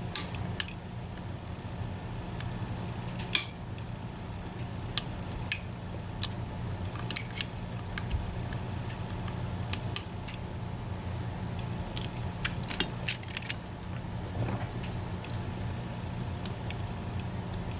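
Irregular small metallic clicks and ticks from a lock pick and tension tool working the pins and sliders of an EVVA ICS lock, with a quick run of clicks about two thirds of the way through. A steady low hum runs underneath.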